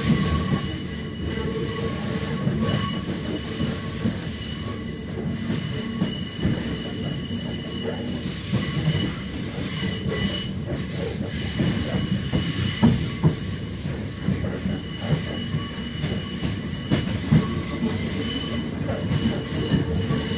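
Train running along the track, heard from inside the carriage: a steady rumble, with the wheels squealing in several high, held tones and scattered sharp knocks from the wheels passing over rail joints and points.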